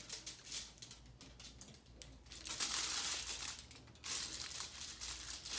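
Aluminum foil crinkling as a painted hand is pressed onto it and it is handled, in several bursts, the longest from about halfway through.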